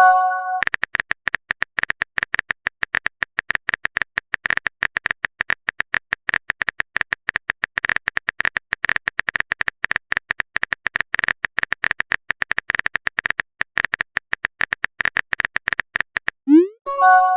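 Rapid, continuous phone-keyboard typing clicks, the sound effect of a text message being typed. A short rising swoop and chime, a message notification sound, comes at the start and again near the end.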